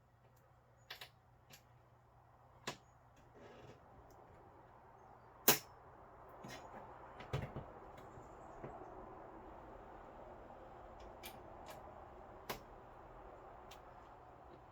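Scattered sharp clicks and knocks of a rear window panel being worked into the slots of a Can-Am Maverick's cab frame, with one loud click about five and a half seconds in and a soft rustling through the second half.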